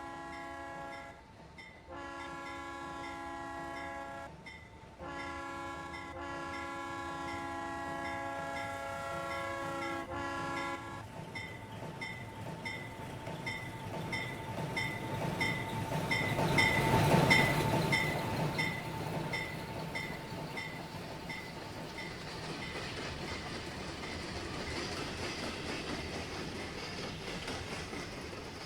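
Steam locomotive whistles sounding long chime blasts, three in all, the last ending about 11 seconds in, over a regular strike about twice a second like a locomotive bell. Then the doubleheaded steam train passes close, loudest about 17 seconds in, and fades away.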